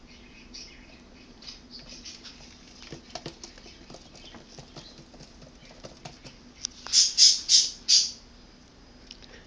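Baby birds scrabbling and fluttering, with small scratchy clicks. About seven seconds in come four loud, short, harsh bursts in quick succession.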